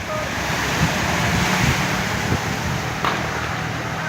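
Strong wind blowing and buffeting the microphone: a steady rushing noise with low rumble, swelling slightly in the middle.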